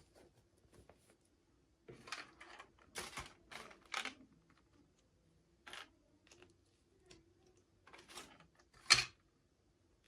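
Hands unboxing a toy: irregular rustles and clicks of packaging being handled, in clusters, with the loudest click near the end.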